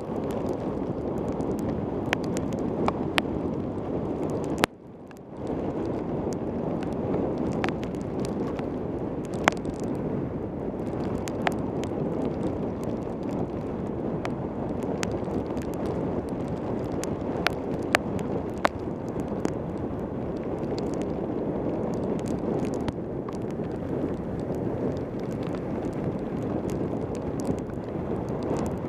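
Wind rushing over a helmet camera's microphone on a fast mountain-bike descent in pouring rain, a steady loud rush with scattered sharp ticks. The rush drops out briefly about five seconds in.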